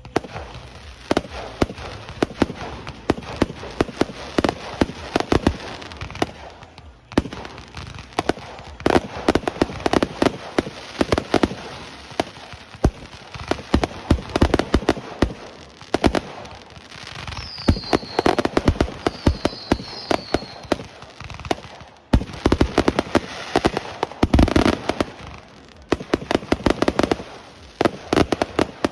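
Aerial fireworks display: a running series of bangs and booms mixed with crackling bursts. The shots come in dense rapid-fire clusters separated by short lulls.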